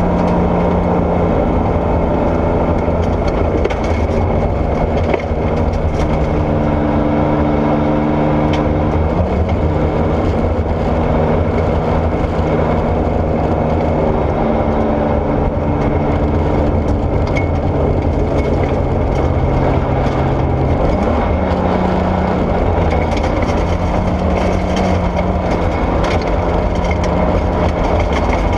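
Porsche 964 rally car's air-cooled flat-six engine running hard on a gravel stage. Its pitch holds steady for long stretches and rises about a third of the way in and again past two-thirds, with scattered ticks of gravel.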